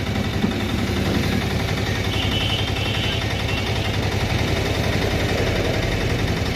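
Piaggio Ape three-wheeler's single-cylinder engine idling steadily with an even, rapid beat, running after a full engine rebuild.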